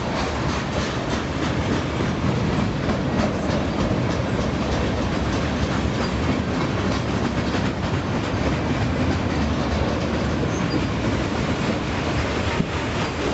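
Freight train cars rolling past: a steady rumble of steel wheels on rail with a run of light clicks from the wheels over the joints.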